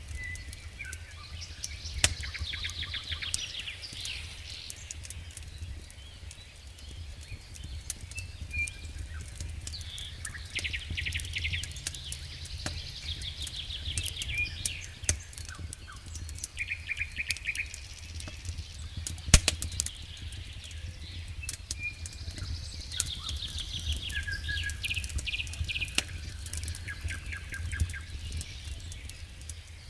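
Campfire crackling with scattered sharp pops, one loud snap a little past halfway, while small birds sing rapid chirping trills again and again, over a low steady rumble.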